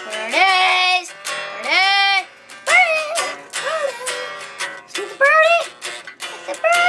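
About six high-pitched vocal squeals from a girl, each rising and then falling in pitch, over acoustic guitar strumming.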